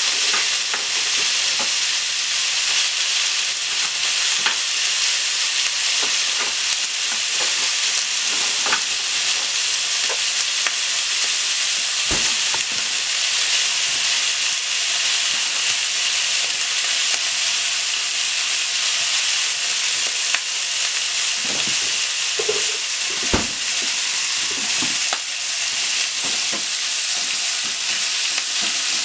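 Sliced pork and onion sizzling steadily in a frying pan, with now and then the click and scrape of chopsticks stirring them against the pan.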